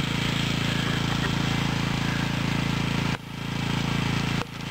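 A steady low engine-like hum, running evenly, with two sudden brief dropouts about three and four and a half seconds in.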